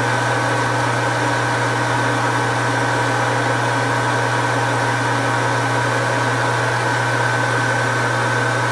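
Metal lathe running steadily: an even hum with a thin, high whine held throughout.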